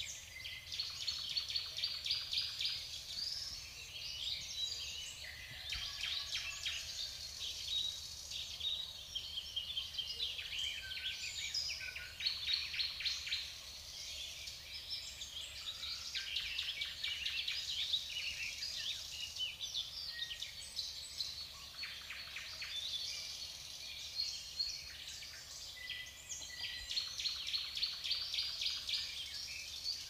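Several garden birds chirping and calling at once: a dense, overlapping run of short high chirps that keeps going, easing off briefly now and then.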